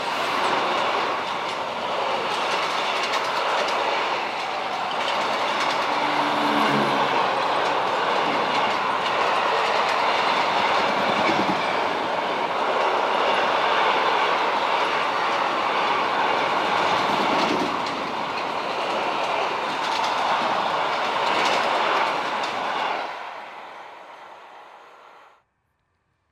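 Covered freight wagons of a long goods train rolling past: a steady rumble and clatter of steel wheels on the rail, with repeated clicks as the wheels pass. It fades over the last few seconds, then cuts off abruptly.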